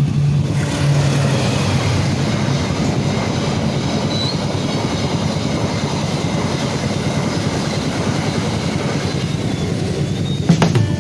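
Train passing over a level crossing: a steady rush of wheel and rail noise with some clatter. Guitar music cuts in near the end.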